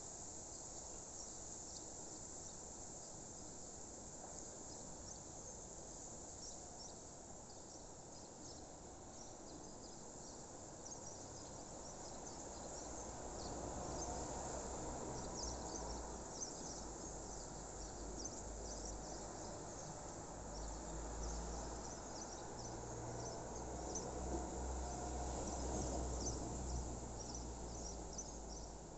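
Crickets chirping, a dense chorus of short high chirps, with a low rumble rising underneath from about halfway through.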